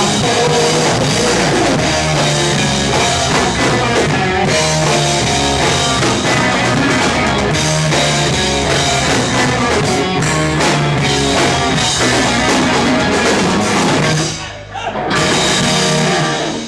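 Rock band playing live, loud, with a drum kit and electric guitars. The music drops out briefly about fourteen seconds in, then comes back and stops near the end.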